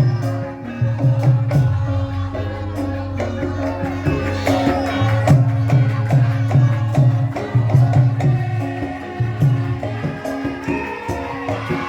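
Live gamelan music for the lengger mask dance: steady low hand-drum strokes, about two a second, under sustained pitched metallic tones.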